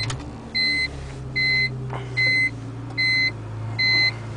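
Supercharged BMW E46 M3's S54 3.2-litre straight-six idling steadily just after starting, heard inside the cabin, sounding like a stock engine. Over it, a dashboard warning chime beeps a little more often than once a second, louder than the engine.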